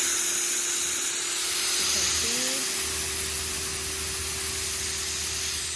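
Pressure washer spraying through a double-nozzle tip: a loud, steady hiss of water jets with the machine's steady hum underneath, a consistent flow.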